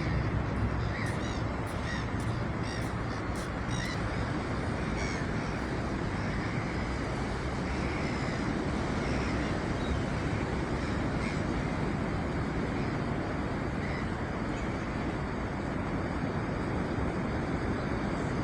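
Sea waves washing steadily, with birds calling: a run of short repeated calls in the first few seconds and a few single calls later.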